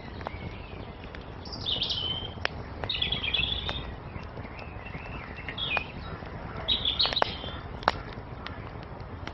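Songbirds chirping in a few short, high phrases over the steady low hiss of a wood fire, with sharp pops and crackles scattered throughout.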